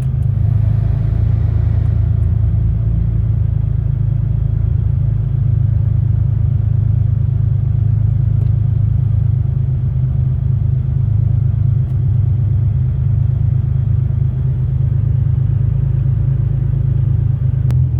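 Toyota Tacoma engine idling steadily while warming up after a cold start, a constant low rumble.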